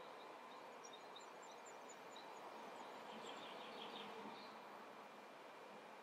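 Near silence: quiet room tone with a run of faint, short, high bird chirps from about one to four seconds in.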